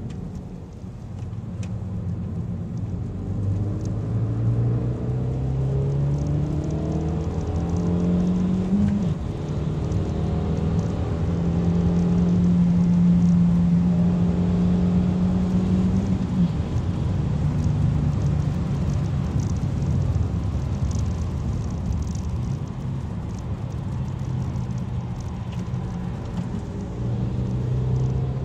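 Kia cee'd GT's turbocharged 1.6-litre four-cylinder engine heard from inside the cabin on track: the pitch climbs under acceleration, drops sharply about nine seconds in, then climbs and holds a steady high note before dropping again near the middle. It then runs at a lower, uneven pitch under steady road and tyre noise.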